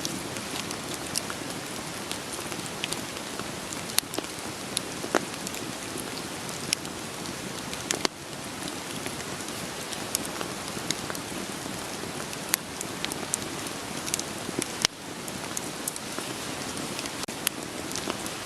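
Steady rain mixed with a crackling wood fire: an even hiss with sharp pops scattered irregularly through it.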